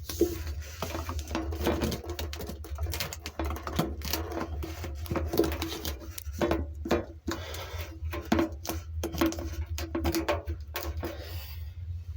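Electric hair trimmer buzzing while it rattles and clatters against the inside of a spinning washing machine drum, over the machine's steady low hum.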